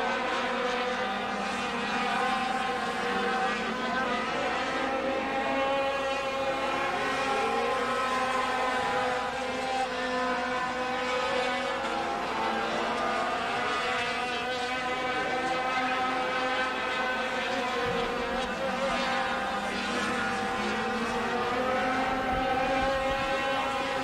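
A field of Wisconsin Sport Trucks racing together, several engines heard at once. Their pitches rise and fall as the trucks accelerate and lift through the turns.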